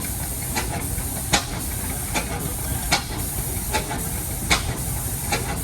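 Large Bessemer stationary gas engine running with an even rhythm: a sharp exhaust crack about every one and a half seconds, softer pops between, over a steady low rumble.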